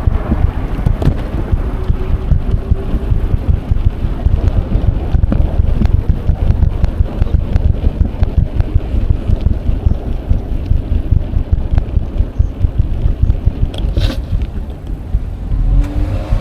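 Wind buffeting an action camera's microphone while cycling: a steady low rumble with many small clicks and rattles, and one sharp clack near the end.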